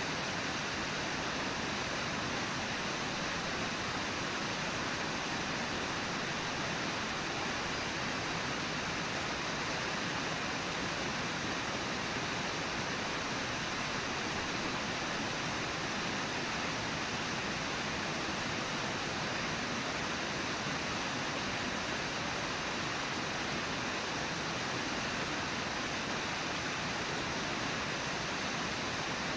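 Steady rushing of river water on the Brooks River, an even roar without change.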